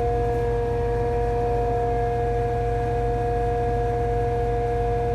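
PTO-driven air compressor and generator of a van's onboard power system running under the engine, with the engine running to drive them: a steady low drone with two steady whining tones over it.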